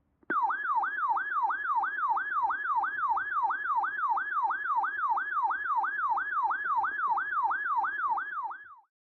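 Electronic siren-style alert tone opening an Emergency Alert System warning: a single tone sweeping rapidly up and down, about three sweeps a second, for about eight and a half seconds, then cutting off near the end.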